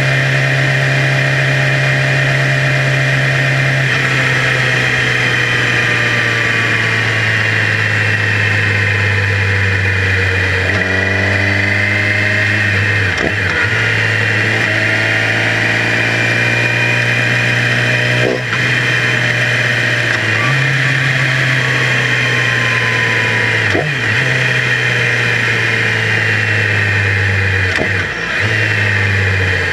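Yamaha YZF-R6's inline-four engine running under way, its pitch climbing and falling as the revs change, with a few brief dips in sound along the way.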